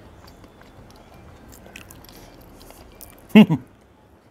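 A man chewing a mouthful of curry-soaked potato, with faint wet mouth clicks. About three seconds in, a short loud vocal sound.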